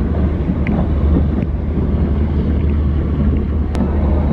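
LHB passenger coach running along the track, heard from its open door or window: a steady low rumble with wind rushing over the microphone, and one sharp click about three and a half seconds in.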